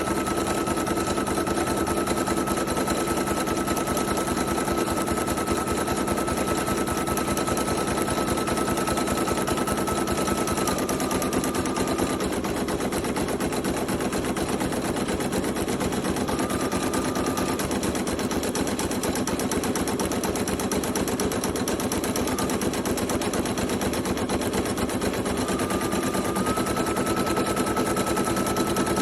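Brother PE800 embroidery machine stitching at speed: a rapid, even needle clatter. A steady motor whine runs with it, dips about ten seconds in, fades out, and returns near the end.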